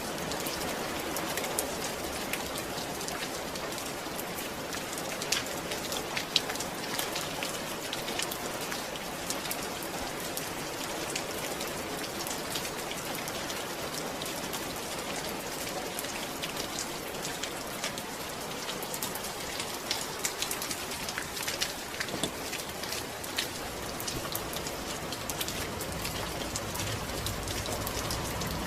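Steady rain falling, a dense patter of individual drops ticking on a surface.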